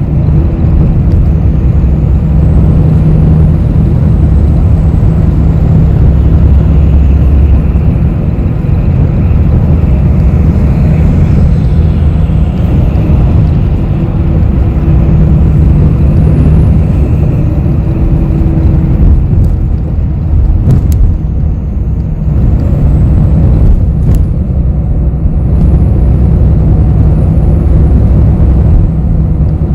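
Interior of a city bus in motion: a steady low engine and road rumble, with a hum that fades around twenty seconds in and returns near the end, and a few faint rattles or clicks.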